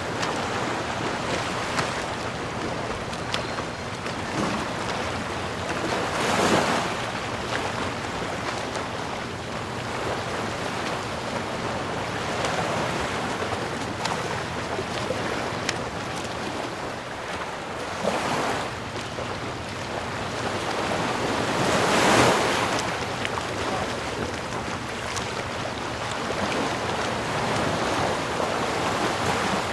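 Ocean waves breaking on the shore over a continuous wash of surf, with louder breakers about six seconds in, around eighteen seconds and around twenty-two seconds.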